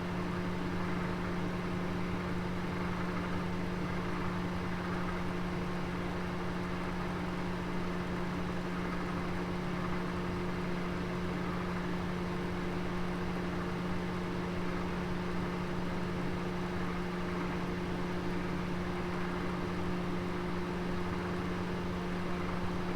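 Oven running with a steady, even hum over a soft whir, a roast cooking inside.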